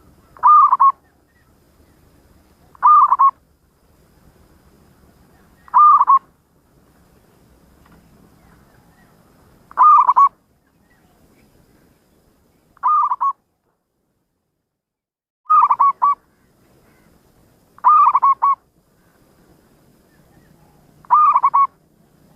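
Zebra dove cooing: eight short calls, each a quick run of a few notes, coming every two to four seconds.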